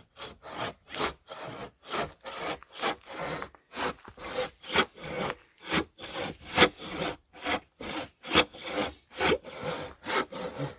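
A hand saw cutting through a log for firewood in quick, even back-and-forth strokes, about two to three a second.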